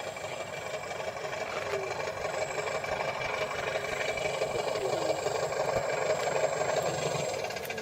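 Simulated piston-engine sound from the Benedini sound module in a 1/4-scale Hangar 9 Super Cub model plane, running steadily and slowly growing louder, over a thin steady high whine.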